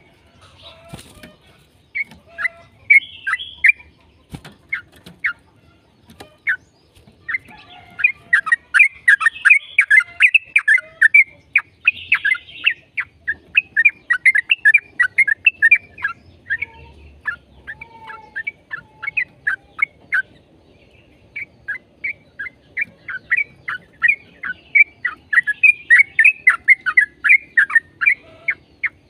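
Yellow-vented bulbul singing its long, fast chattering song: quick runs of short bright notes in extended phrases, broken by short pauses.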